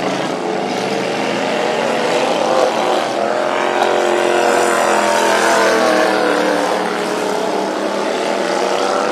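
Racing lawnmower engines running hard on the track, their pitch rising toward the middle and falling again as the machines rev and pass.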